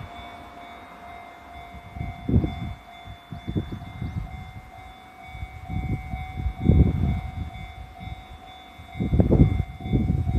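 JR 311 series electric multiple unit passing over a level crossing: its wheels thud over the rail joints in groups, louder toward the end. Under it, the level crossing's warning bell rings with a steady tone.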